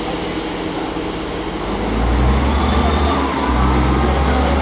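Diesel passenger train at the platform, its engines running steadily with a low drone that grows louder about two seconds in.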